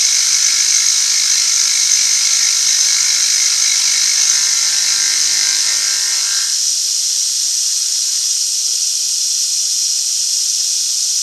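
Machine-tool motor running steadily over a constant high hiss, cutting off about six and a half seconds in while the hiss carries on.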